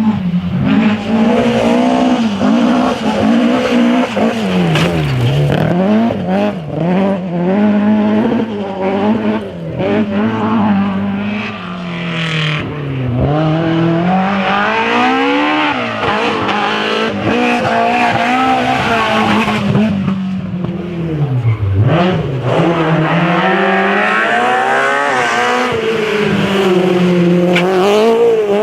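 Historic rally car engine driven hard, its revs repeatedly dropping sharply and climbing again through braking and gear changes.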